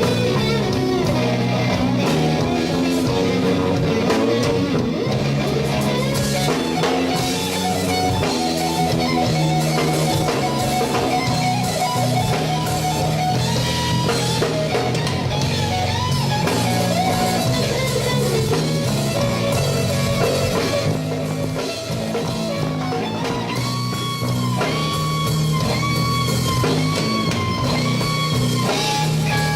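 Slow blues played by a band: electric guitar over bass and drum kit, with no singing. Near the end the guitar plays bent notes that slide up and down.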